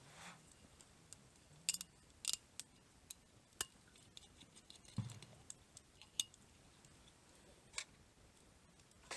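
Eating utensils clicking and clinking against dishes in irregular, sharp taps, with a duller knock about five seconds in.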